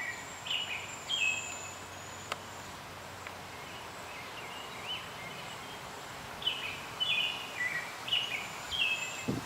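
Bird calling in short, falling chirps: a couple near the start, then a run of them in the last few seconds, over a faint steady high tone in the outdoor background.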